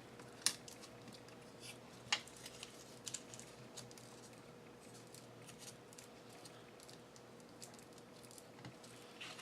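Faint scattered clicks and rustles of paper craft pieces being handled and set down on a work table, with sharper clicks about half a second and two seconds in, over a faint steady hum.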